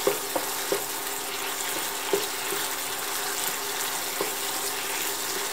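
Minced pork chili paste sizzling in a small nonstick pan as a wooden spatula stirs it, with a steady hiss and a few light knocks of the spatula against the pan.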